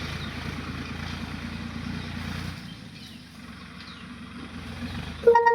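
Swaraj tractor's diesel engine running steadily, dropping to a quieter level about two and a half seconds in. Near the end a loud horn starts honking in short pulses.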